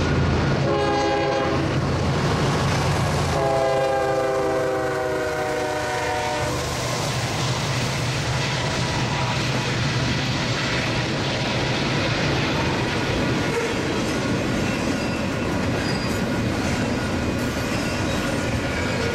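Diesel freight locomotive air horn sounds a short blast about a second in, then a longer blast dropping slightly in pitch as the locomotives pass, over the deep rumble of their engines. After that, the steady rolling rumble and clatter of double-stack container cars running past on the rails.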